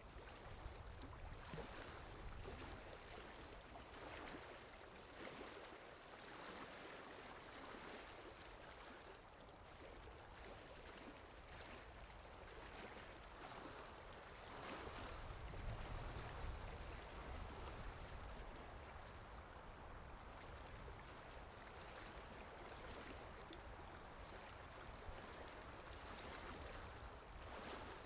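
Steady rain falling, an even hiss, with a low rumble that swells up around the middle.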